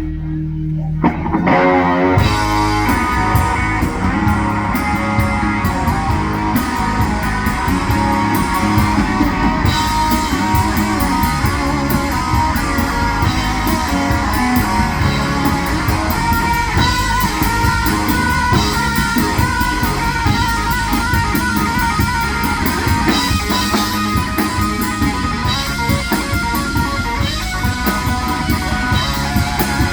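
Southern rock band playing an instrumental passage with electric guitars, bass and drum kit. About two seconds in, the full band comes in after a short rising slide.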